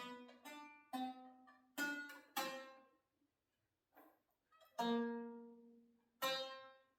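Plucked strings of a stringed instrument sounded one at a time, about six single notes of different pitches, each ringing and fading out, with a pause in the middle: the strings being checked one by one for tuning.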